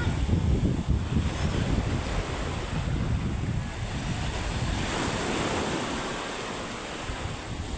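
Sea surf washing onto a beach, with strong wind buffeting the microphone. The buffeting is heaviest in the first few seconds and eases toward the end. This is stormy wind and surf ahead of a typhoon.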